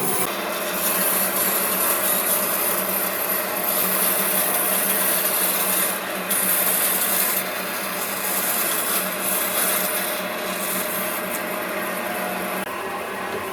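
Wood being worked by an abrasive tool: a steady rubbing, rasping noise over a low steady hum. The high hiss eases off and comes back several times.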